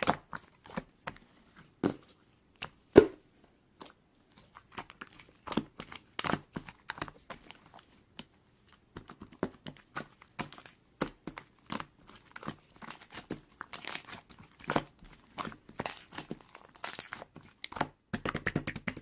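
Slime being squeezed, poked and stretched by hand: an irregular run of sticky pops and clicks, turning into a dense crackle about halfway through.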